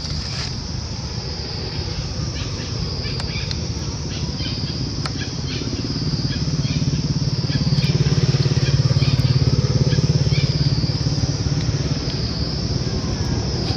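A motor vehicle engine running, growing louder from about six seconds in and easing off after about eleven seconds. Under it there is a steady high-pitched drone and scattered short chirps.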